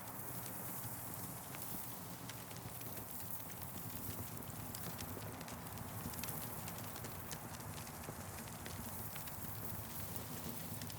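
Campfire crackling, with many irregular sharp snaps and pops over a steady low rumble.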